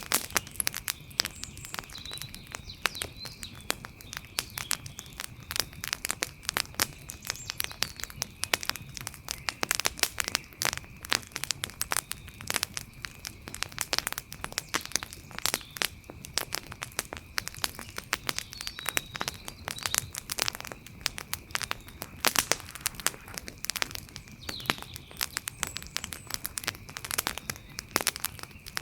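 Wood fire crackling, a dense run of irregular pops and snaps. A faint steady high tone and a few faint chirps run underneath.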